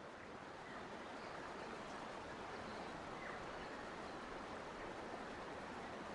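Steady rush of running water, like a stream flowing.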